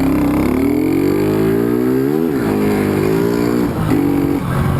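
Honda CG Fan 125 single-cylinder four-stroke engine accelerating, its pitch climbing, dropping at a gear change a little over two seconds in, climbing again and easing off near the end.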